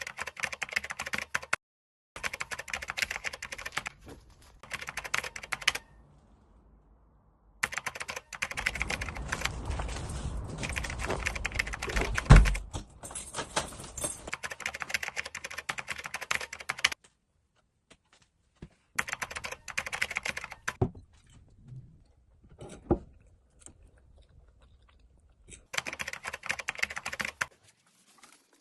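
Rapid typing on a computer keyboard in several bursts that start and stop abruptly, with one loud thump about twelve seconds in.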